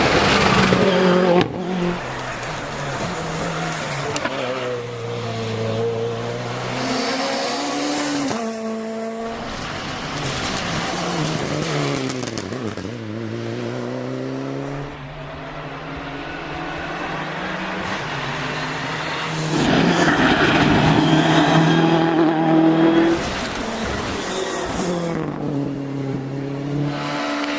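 Rally cars driven hard, engines revving up and down through gear changes, with the loudest passes near the start and from about 20 to 23 seconds in.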